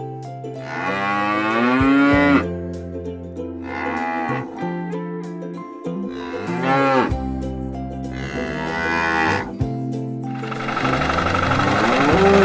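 A farm animal calling repeatedly, in about five long drawn-out calls with a wavering pitch. A dense rattling mechanical noise starts near the end.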